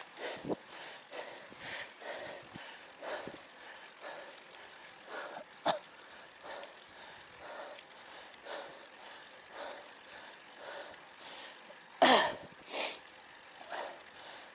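A road cyclist's hard, rapid panting while pedalling against a strong headwind, in short breaths about every half second. Two louder, harsher exhales or coughs come about twelve seconds in.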